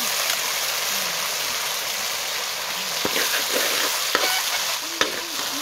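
Boiled mung beans frying with garlic, onion and ginger in hot oil in a steel wok, sizzling steadily while a metal ladle stirs them. The ladle clicks against the pan a few times in the second half.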